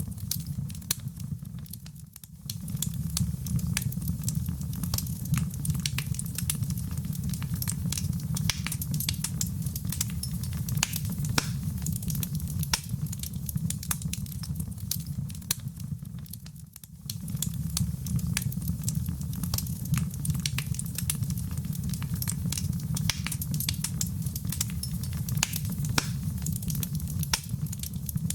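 Fireplace fire crackling, with many sharp pops over a steady low rumble of the flames; the rumble dips briefly twice.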